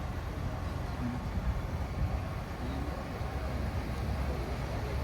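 Steady low rumble of a running vehicle, with faint voices in the background.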